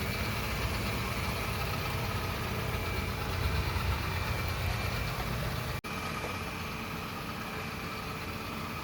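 Yeedi Vac 2 Pro robot vacuum running steadily, its motor humming with a faint high whine. The sound drops out for an instant about six seconds in and carries on slightly quieter.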